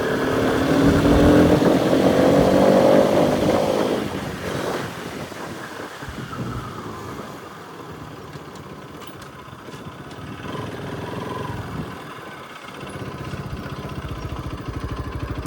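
Bajaj Pulsar RS200's single-cylinder engine accelerating with a rising note for about four seconds, then easing off to a quieter, lower running that carries on until the sound cuts off at the end.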